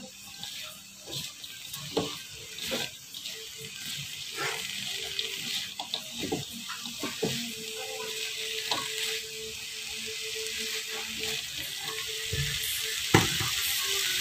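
Fried tempe strips with sliced lemongrass sizzling in a wok in a palm-sugar glaze while being stirred with a spatula, with scattered knocks and scrapes of the spatula on the pan. The sizzling grows louder towards the end.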